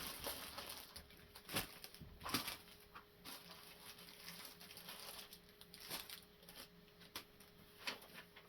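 Handling noise from unpacking a toy tank kit: scattered light knocks, clicks and rustles of packaging and plastic parts being moved about, with a stronger knock about a second and a half in and another past two seconds.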